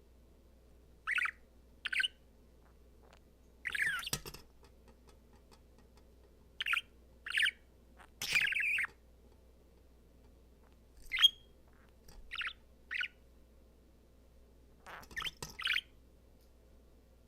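Budgerigar giving short chirps, mostly in quick pairs separated by pauses of a second or more, with one sharp, louder chirp about eleven seconds in.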